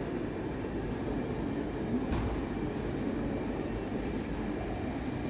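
Steady low rumble of an airport terminal's background noise, with one short knock about two seconds in.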